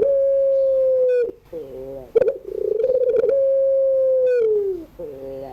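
Puter pelung (long-voiced Barbary dove) calling: each phrase starts with a quick rolling coo and then holds one long steady note that slides down in pitch as it ends. One long note ends about a second in, a full call follows, and the next begins near the end. A small bird chirps faintly twice in the background.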